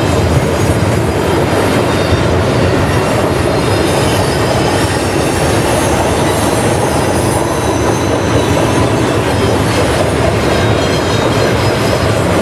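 Freight train cars rolling steadily past at close range, a loud continuous rumble of wheels on rail with faint thin high wheel squeal.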